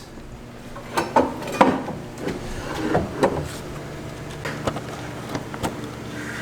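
Metal parts and tools clicking and knocking as a car's shifter cable and linkage are worked loose: several sharp knocks in the first few seconds, then lighter ticks, over a steady low hum.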